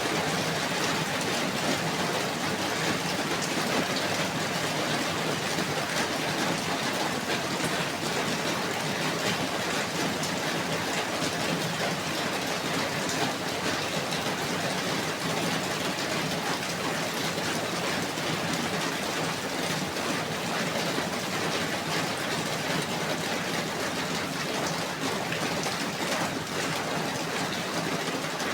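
Steady, even rain falling, a dense hiss with many small drops ticking through it.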